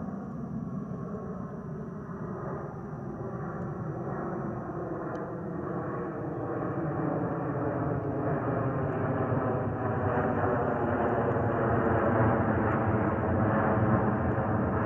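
Airbus A320 jet airliner's engines growing steadily louder as the aircraft approaches, a rushing roar with a slowly shifting, sweeping tone.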